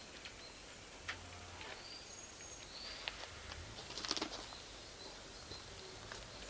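Bonfire of firewood and cut charcoal crackling softly, with scattered sharp pops and a short run of crackles about four seconds in. A few faint bird chirps sound in the background.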